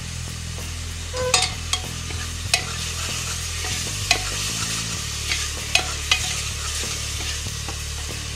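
Onion, green chilli and ginger paste sizzling in hot mustard oil in a pressure cooker as it is sautéed. A steel ladle stirs it, clinking and scraping against the pot's metal side about seven times.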